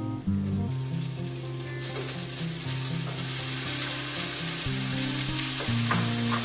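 Onions and cooked chicken frying in olive oil in a skillet on high heat, a steady sizzle that grows louder about two seconds in.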